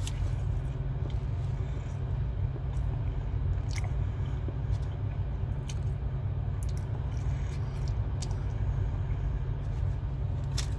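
A man chewing a mouthful of buffalo chicken sandwich, with scattered small clicks and crackles from the food and its paper wrapper, over a steady low rumble.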